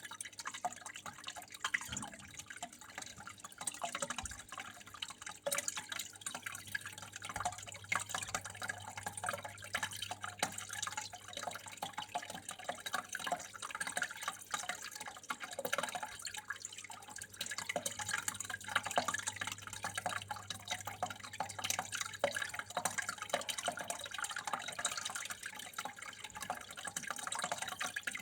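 Water trickling and dripping in a continuous, irregular patter of small splashes, like a small indoor stream of running water.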